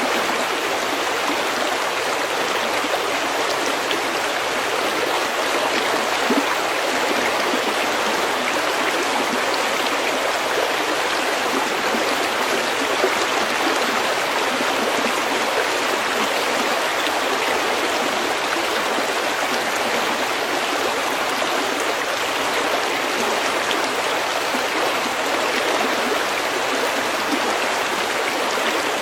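Stream flowing over pebbles: a steady, even rush and babble of water.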